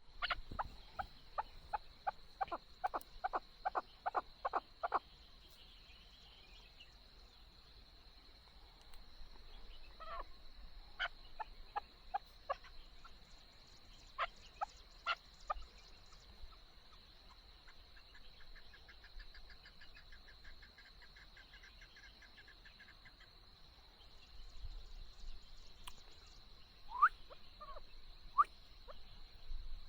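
Chukar partridge calling: a fast even run of about a dozen clucking notes in the first five seconds, then scattered single calls and a few louder calls near the end. A faint steady high whine runs underneath.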